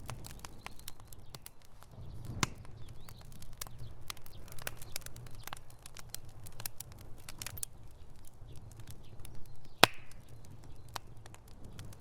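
Wood fire burning in a fireplace: irregular crackling and snapping over a steady low rumble of the flames, with one loud pop near the end.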